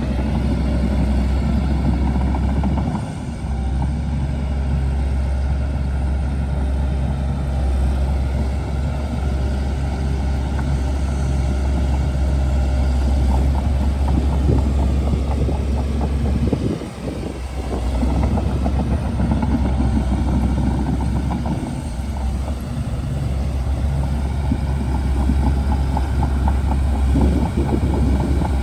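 Shantui DH17C2 bulldozer's diesel engine running steadily under load, with a deep low drone, dipping briefly twice, about three seconds in and again about halfway through.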